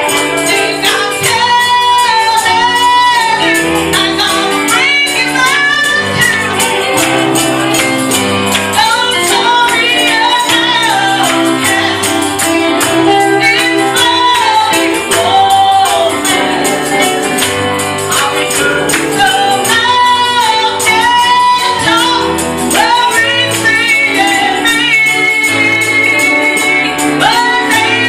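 Gospel singing led by a woman's voice, with a tambourine shaken on a steady beat and a band's bass line underneath.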